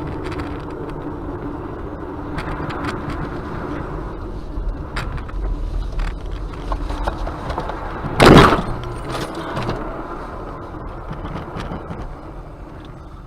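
Car driving, with steady engine and road noise and scattered clicks. About eight seconds in there is one loud, short bang, the loudest sound here, typical of a collision.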